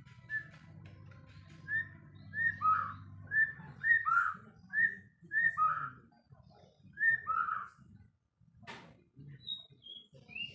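White-rumped shama singing: a run of about eight clear whistled phrases, each a short high note dropping into a lower swooping one, followed by a single sharp click and a few higher notes near the end.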